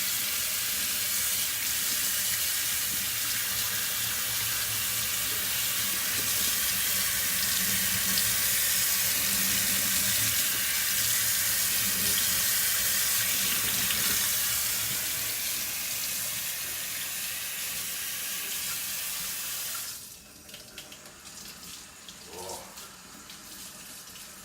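Water running hard from a tap into a sink, splashing over an octopus tentacle being rinsed of slime. The water stops suddenly about twenty seconds in, leaving quieter handling sounds.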